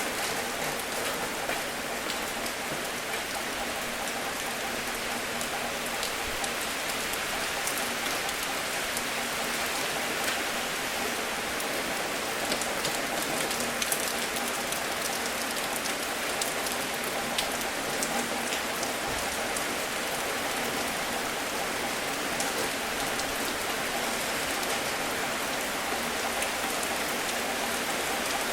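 Steady, gentle rain: an even hiss sprinkled with many small drop ticks.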